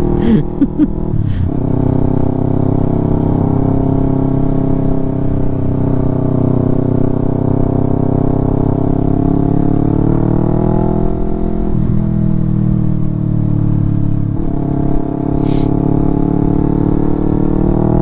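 Yamaha R3's 321 cc parallel-twin engine running through an Akrapovic full-system exhaust while the bike is ridden. The engine note holds fairly steady, climbs gently, and briefly drops a couple of times past the middle before picking up again.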